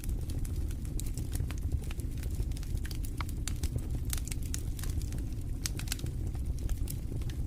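Fire burning in a fireplace: a steady low rumble of flames with many sharp, irregular crackles from the burning fuel.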